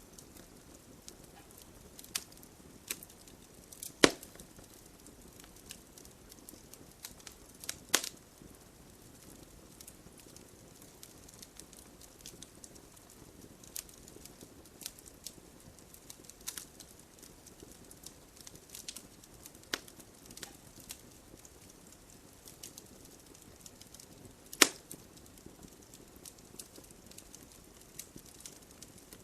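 Wood logs burning in a fireplace, crackling with a steady scatter of small snaps. Louder pops stand out about 4 and 8 seconds in and again late on.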